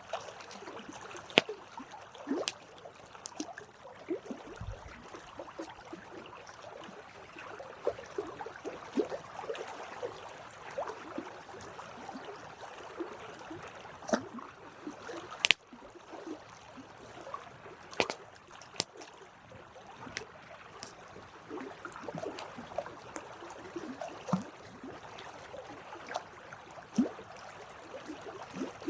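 Campfire crackling: burning wood hissing steadily with irregular sharp snaps and pops, a few of them much louder.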